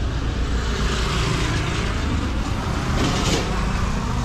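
Road traffic going by: a steady low rumble of vehicles, with one passing more loudly about three seconds in.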